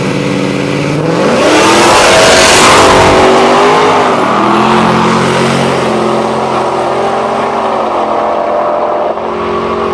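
Drag race car's engine revving up and accelerating hard, loudest about two to three seconds in, then running at a steady, lower drone.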